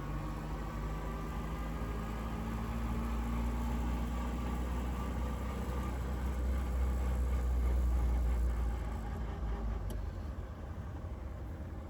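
1926 Voisin's engine running as the car is driven, a steady low drone that swells to its loudest about eight seconds in and then eases off.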